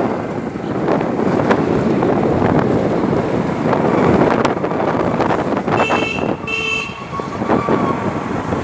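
Two short vehicle horn toots about six seconds in, over a steady rush of wind on the microphone and road noise from riding.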